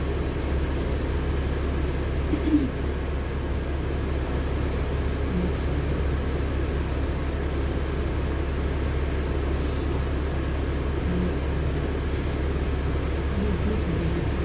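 LiAZ-6213.65 articulated city bus running, heard inside the cabin: a steady low drone of engine and road noise. A brief knock comes about two and a half seconds in.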